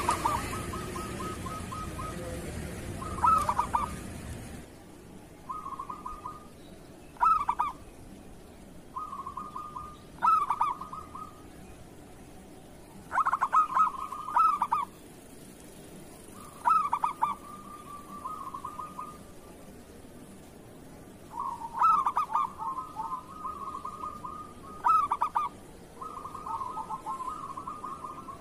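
Zebra dove (perkutut) song: repeated phrases of rapid, rolling coos, one every two to three seconds, some running into each other. A hissing background drops away about four seconds in.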